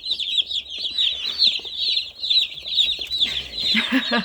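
A brooder full of broiler (meat) chicks peeping constantly, many high, short, downward-sliding cheeps overlapping. Near the end a brief lower-pitched sound joins in.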